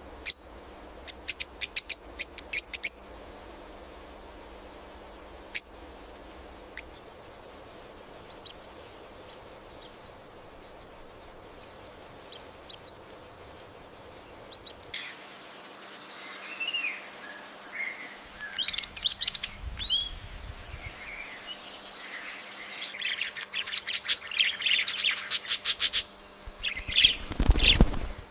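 Rainforest birds chirping and calling. A quick series of sharp chirps comes in the first few seconds. From about halfway there is a busier mix of whistled, sliding calls that grows dense and loud near the end, over a steady high tone.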